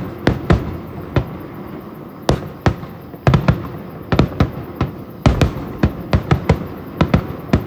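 Fireworks bursting overhead: a long series of sharp bangs, some single and some in rapid runs of several bangs a second.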